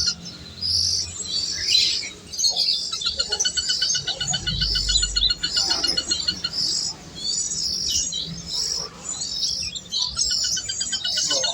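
Birds chirping, with rapid repeated trills that come and go.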